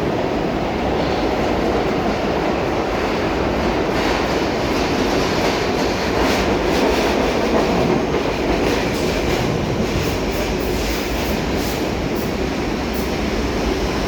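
R62A subway train running along the track into the station: a steady rumble of steel wheels on rail, with rapid clicking of wheels over rail joints from about four seconds in.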